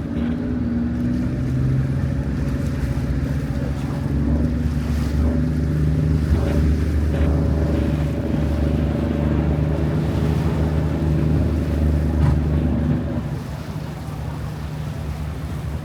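Boat engine running with a steady low hum, over the rush of water and wind. It grows louder after a few seconds and eases off near the end.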